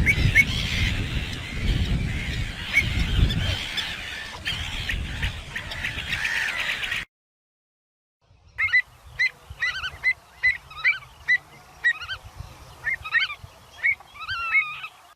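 Avocets calling. First comes a busy flock of overlapping calls over a rumbling background. After a short gap, a single clean series of sharp, clear calls follows at about two a second, some with an upward lilt.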